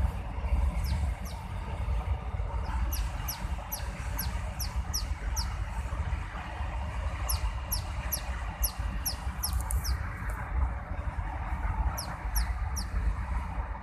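A small bird peeping: quick runs of short, high, falling peeps with a brief pause about two-thirds of the way through, over a low rumble.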